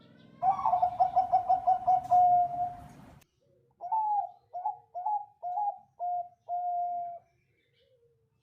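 Zebra dove (Bangkok perkutut) singing: a fast run of about ten short coos ending in a held note. After a short break comes a slower phrase of six coos, the last one drawn out.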